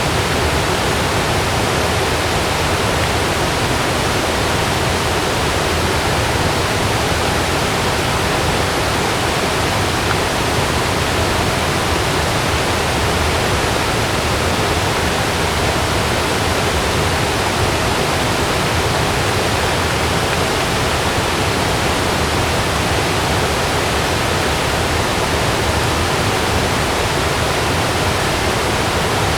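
Heavy rain falling on a camping tent, a steady even hiss.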